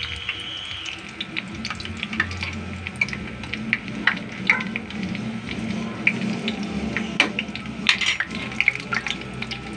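Batter-coated kangkong (water spinach) leaves deep-frying in hot oil in an aluminium pan: steady sizzling with frequent sharp crackling pops.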